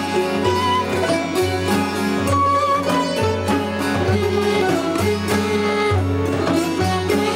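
Persian traditional music: plucked and bowed string instruments playing a melodic instrumental passage, with no singing.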